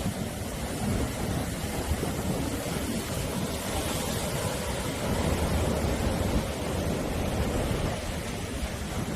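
Sea surf: waves breaking and washing on the shore as a steady rushing noise, swelling a little about halfway through.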